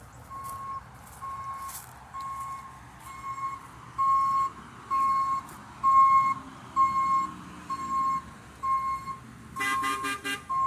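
Hi-rail truck's backup alarm beeping steadily, about three beeps every two seconds, over a low engine rumble. Near the end a louder horn-like sound with several tones joins in.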